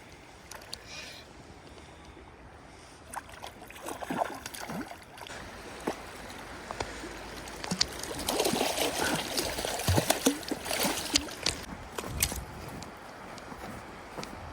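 Creek water running steadily, with a louder stretch of splashing and sharp knocks for a few seconds around the middle.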